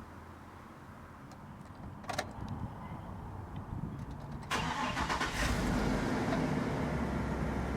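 A 2014 Chevrolet 4500 cutaway truck's engine starts with a sudden surge about four and a half seconds in, after a click at about two seconds, then settles into a steady idle.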